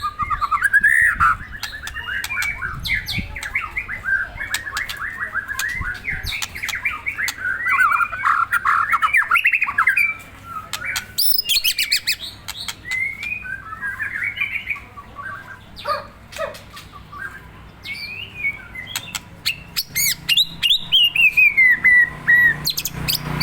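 White-rumped shama (murai batu) singing a rapid, varied song of warbles, harsh notes and sharp clicks, with a long falling whistle near the end. It is the excited song of a bird being provoked.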